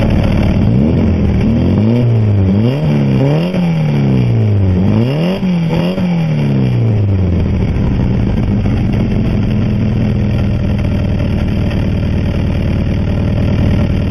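Air-cooled VW 1799cc stroker flat-four on dual 40 IDF carburettors, heard through a Moroso Spiral-Flow muffler: the throttle is blipped in a quick series of revs, then the engine settles to a steady idle about halfway through.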